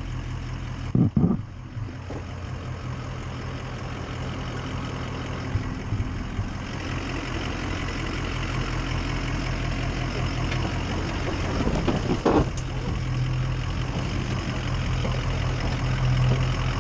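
Ford F-250's Power Stroke V8 diesel engine running steadily at a low, even pitch. Two short loud thumps, about a second in and again near twelve seconds.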